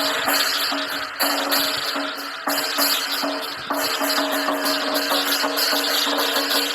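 Chinese lion dance percussion music: drum with cymbals clashing continuously.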